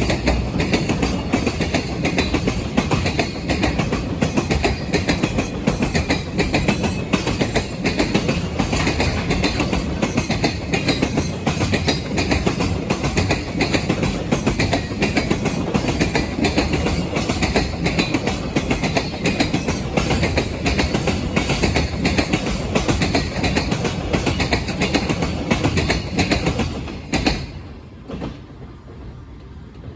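Freight train passing close by: a steady rumble with rapid clickety-clack of wagon wheels over the rail joints, which drops away suddenly about 27 seconds in as the end of the train goes by.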